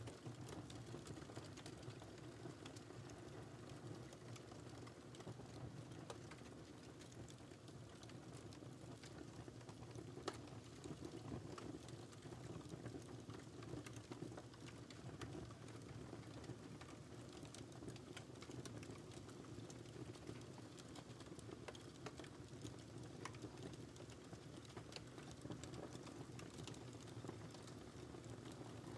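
Wood fire crackling softly in a fireplace: a steady low burning hiss with frequent small irregular pops and snaps, one sharper pop about ten seconds in.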